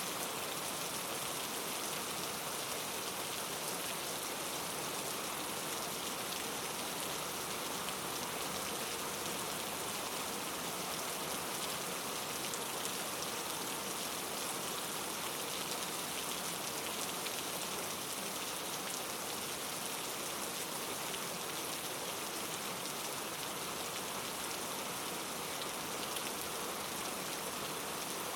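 Steady rain falling, a constant hiss of drops pattering on a surface.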